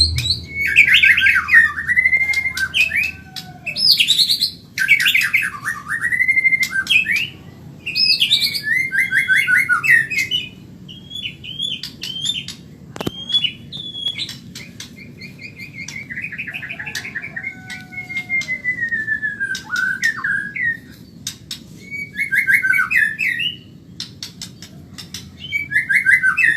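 White-rumped shama (murai batu, Medan type) singing fast: a string of loud phrases of rapid trills and whistles, each a second or two long with short pauses between. A single sharp click comes about halfway through.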